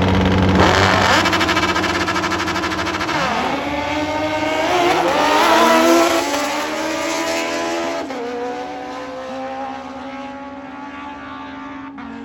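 Drag racing motorcycle engine at high revs, then its pitch climbing in rising sweeps as the bike accelerates down the strip. It gets quieter after about eight seconds as the bike draws away.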